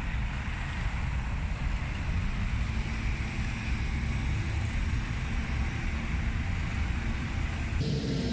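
Steady low outdoor rumble of wind buffeting the microphone over distant traffic, changing abruptly shortly before the end.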